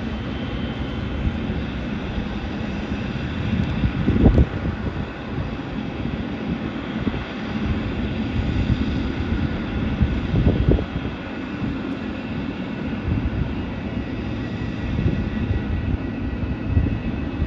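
Jet airliner engines running at an airport, a steady rumble with a faint high whine, with wind on the microphone; two brief louder bumps about four and eleven seconds in.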